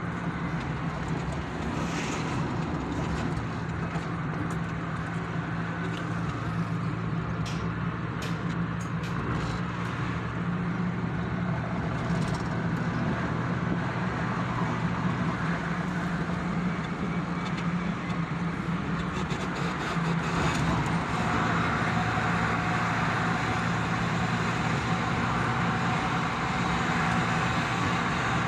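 Road noise of a car driving through a road tunnel: a steady low engine and tyre drone under a broad hiss. Scattered faint ticks come in the first part, and the hiss grows louder about two-thirds of the way in.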